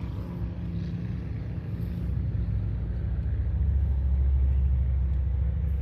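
Low, steady engine rumble that grows louder over the first few seconds, then holds.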